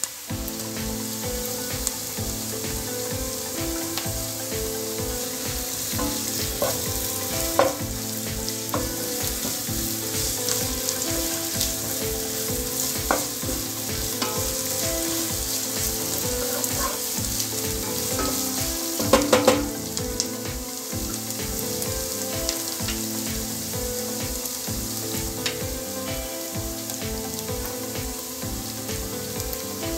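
Sliced onions, green chillies and ginger paste frying in hot oil in a nonstick kadai, with a steady sizzle. A spatula stirs and scrapes against the pan, with a few sharp taps and a louder cluster of them a little past the middle.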